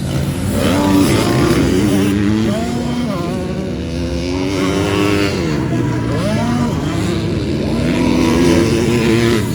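Several motocross bikes racing, their engines revving up and down repeatedly as they accelerate and back off around the track.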